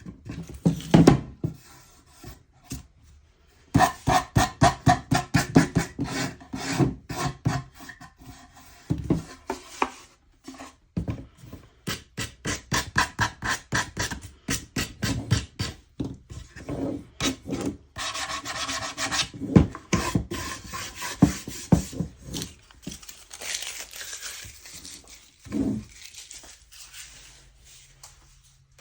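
Repeated back-and-forth rubbing strokes on a wooden surface, in quick runs of about three strokes a second with short pauses between.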